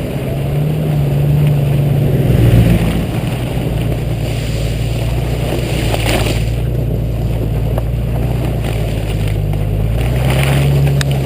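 Jeep Cherokee XJ engine running steadily while driving, with tyre and wind noise; the engine note rises briefly about a second in and again near the end.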